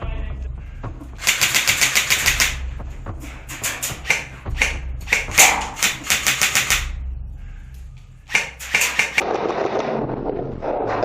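Airsoft guns firing on full auto: several bursts of rapid, evenly spaced shots, the longest lasting about a second and a half.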